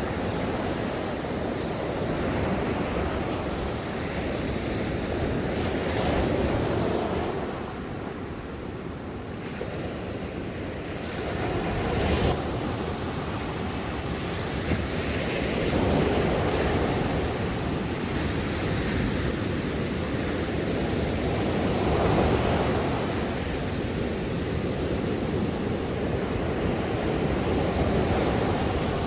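Ocean waves breaking on a shore: a continuous wash of surf that swells and eases every several seconds as each wave comes in, with a sharper break about twelve seconds in.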